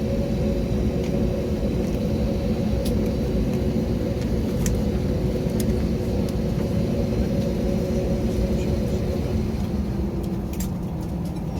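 Steady cabin rumble of an Airbus A320neo with its engines running, with a couple of steady tones in the hum that change about nine seconds in. A few faint light clicks sound over it.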